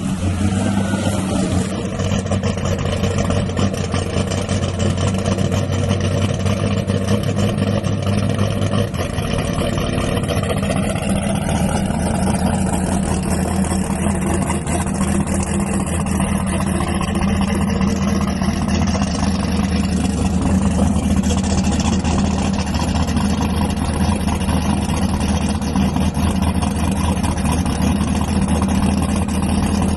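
A drag-racing vehicle's engine idling, running at a steady low pitch that holds with only a slight change about nine seconds in.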